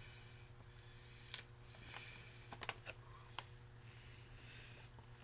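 Faint sounds of a man chewing a thick, tough slice of hickory-smoked pork jerky, with small mouth clicks and the rustle of the plastic jerky bag in his hand; the sharpest click comes about a second and a half in.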